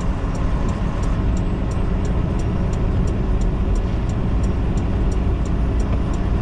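Semi truck's engine and road noise heard inside the cab, a steady low drone at slow speed, with a faint regular ticking about three times a second.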